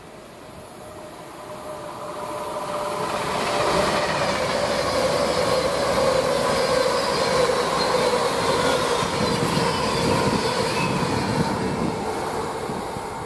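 Avanti West Coast Class 390 Pendolino electric train passing along the line: a growing rush of wheels on rail, with a steady hum that slides slightly lower in pitch as it goes by, then slowly dies away near the end.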